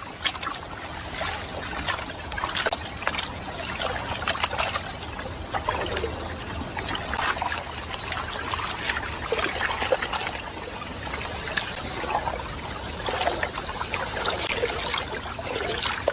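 Water trickling and splashing in an uneven, restless run of small splashes.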